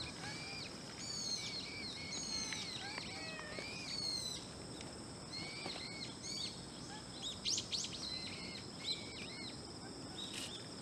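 Small birds chirping repeatedly in short, arched calls, over a steady high-pitched insect drone.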